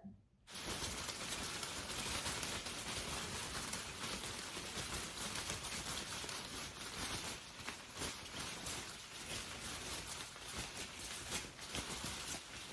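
Steady rain falling, a dense hiss of many small drops that starts about half a second in after a moment of silence.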